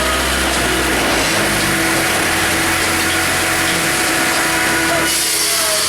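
Firewood processor running, its engine and machinery making a loud, steady noise.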